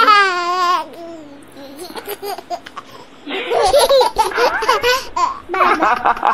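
A loud wavering cry that falls in pitch at the start, then bursts of laughter in the second half.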